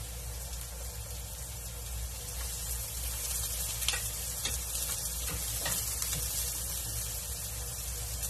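Minced ginger, onion and garlic sizzling in hot oil in a nonstick frying pan. A wooden spatula stirs the mix from about halfway through, adding a few light clicks against the pan.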